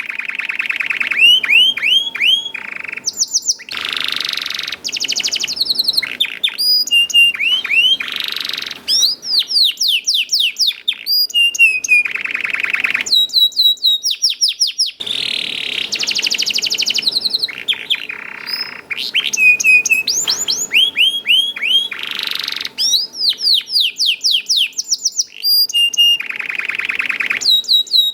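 Domestic canary singing a long unbroken song. Fast runs of falling whistled notes alternate with dense buzzy rolls and trills.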